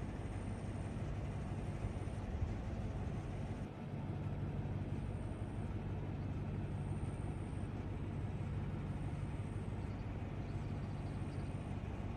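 Steady low hum and rumble of a running vehicle, unbroken apart from a brief dip about four seconds in.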